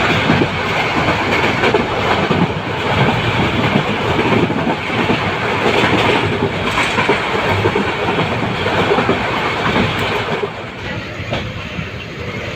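Passenger train running on the rails, a loud steady rush of wheel and rail noise that starts abruptly and eases somewhat near the end.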